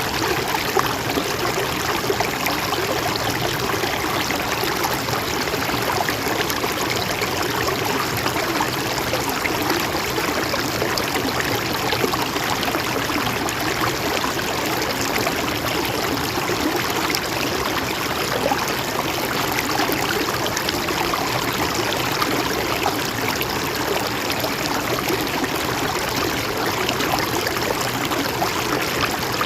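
Mountain stream flowing steadily, a continuous rushing and trickling of water over rocks.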